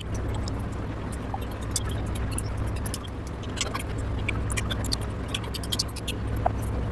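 Close-up eating sounds: many small, irregular wet clicks and smacks of chewing and handling food, over a steady low hum.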